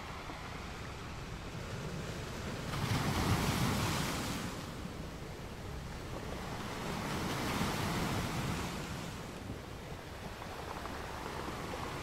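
Steady rushing noise of wind and river water, swelling twice: about three seconds in and again around eight seconds.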